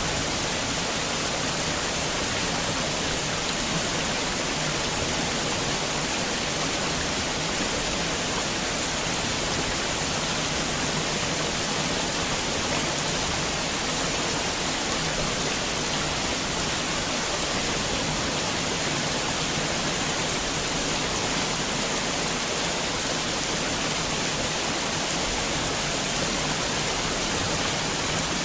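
Steady heavy rainfall, a dense, even hiss with no individual drops or thunder standing out.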